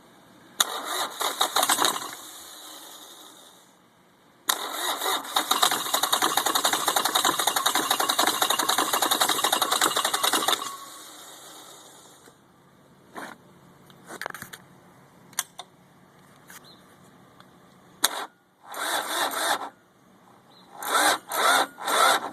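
Thermo King TK353 (Yanmar) three-cylinder diesel being cranked by its starter in repeated attempts that fail to start it: a short crank, a long crank of about six seconds, then short choppy bursts near the end. The battery has too little charge to crank it properly. Sharp clicks come between attempts, the idle solenoid being engaged before the last tries.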